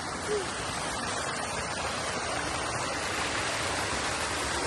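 Steady, even rushing noise with no break or change.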